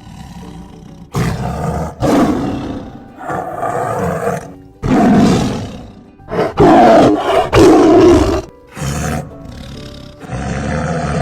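Tiger roaring again and again, a series of about eight loud roars each lasting around a second, over light background music.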